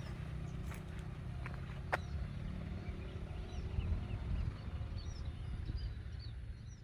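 Small birds chirping in short, high notes, more of them in the second half, over a steady low rumble, with one sharp click about two seconds in.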